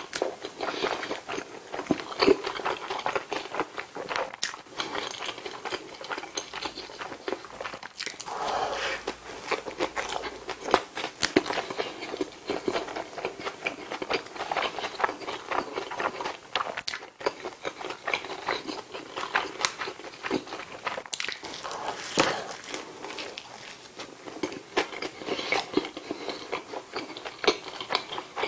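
Close-miked chewing and biting of a McDonald's bulgogi burger: a dense, irregular run of small wet mouth clicks and smacks with light crunching.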